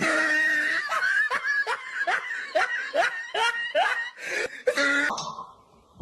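A person laughing hard in repeated bursts, about two a second, which cut off abruptly about five seconds in.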